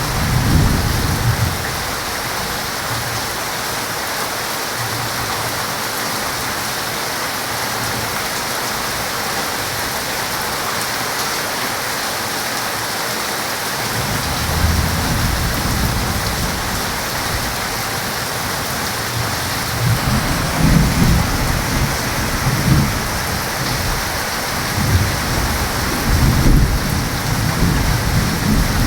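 Heavy rain falling steadily, with rolls of thunder rumbling in the first second, again from about halfway through, and loudest near the end.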